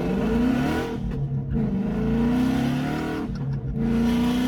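Ford Mustang with freshly fitted mufflers accelerating hard: engine and exhaust note climbing in revs, dropping at a gear change about a second in and again a little past three seconds in, then climbing once more. The exhaust tone is deeper and less raspy with the new mufflers.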